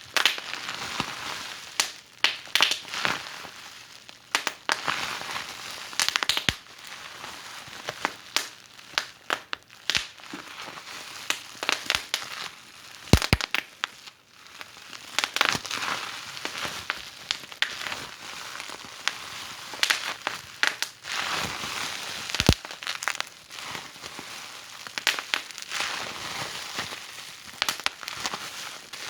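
Wood fire burning in a fireplace, crackling steadily over a soft hiss, with irregular sharp pops and a few louder snaps.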